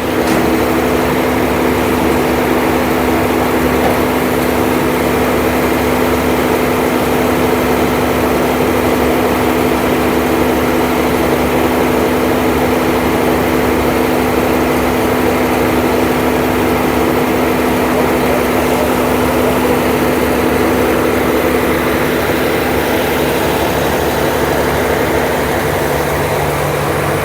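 Diesel engine of a concrete pump truck running steadily at constant speed, a continuous even drone.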